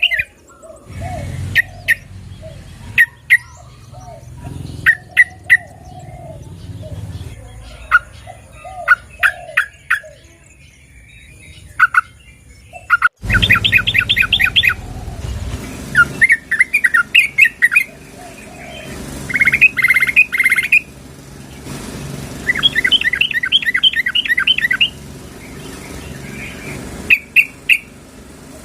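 Yellow-vented bulbuls (trucukan) calling. Single sharp chips and fast chattering runs of notes come in repeated bursts, and the sound changes abruptly about halfway through. It is presented as a female calling to a male.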